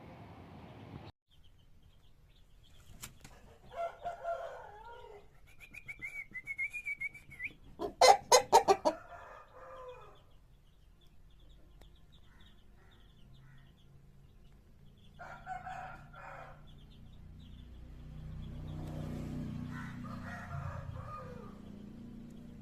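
Aseel chicken calling in short pitched calls and clucks. About eight seconds in there is a quick, loud burst of wing flapping, the loudest sound here.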